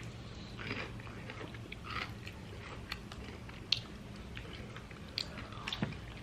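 Close-miked chewing of fried chicken: wet mouth sounds with scattered small crunches and clicks of bites.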